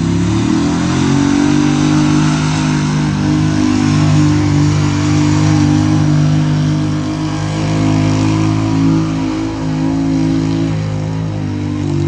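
Engine of a competition pulling vehicle running loud at high revs. Its pitch climbs in the first second, then holds fairly steady with small rises and dips.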